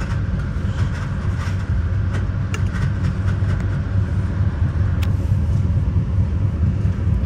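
Steady low rumble of a Metra commuter train rolling over the rails, heard from inside the rear car, with a few faint clicks.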